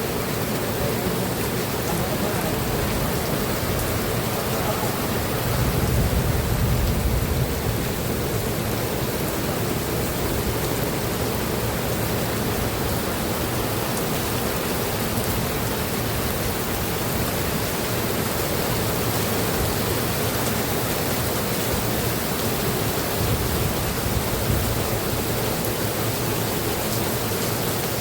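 Steady rain, an even dense hiss, with a louder low rumble for a couple of seconds about six seconds in.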